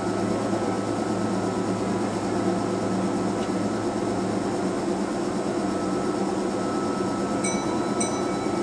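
Kintetsu 12200 series 'Snack Car' limited express standing at the platform with its on-board equipment giving a steady low hum. Two short high beeps sound near the end.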